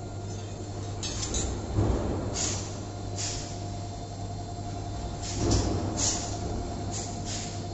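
CNC 3D head-rotating wire bending machine running through its bending cycle. A steady hum and whine run throughout, with short hisses every second or so and a couple of heavier clunks, about two seconds in and again about five and a half seconds in.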